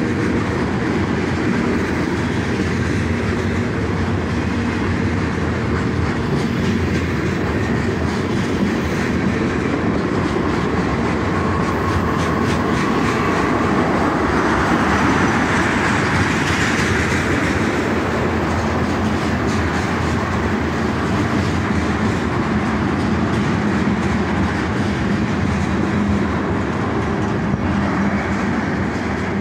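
Loaded freight tank cars rolling past at close range: a steady rumble of steel wheels on rail, with wheels clicking over rail joints, swelling a little about halfway through.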